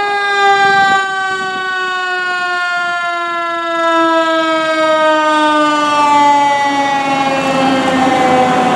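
Fire engine siren spinning up quickly to a high pitch, then winding slowly down in one long falling tone. Vehicle noise grows louder underneath about halfway through.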